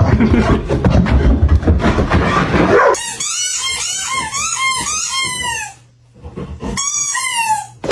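A dog whining and whimpering in a rapid string of short, high, arching cries, in two runs separated by a brief pause, after about three seconds of dense rustling noise.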